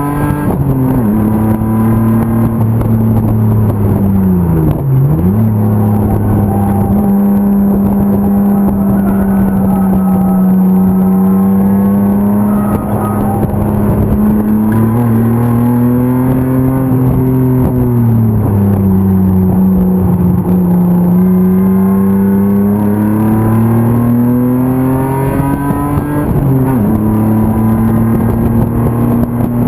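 BMW E36's M50 inline-six engine running hard on track, its note holding steady between changes in throttle and revs. About five seconds in the pitch drops sharply and then climbs back. Slower swells and sags in revs follow, with another quick dip near the end.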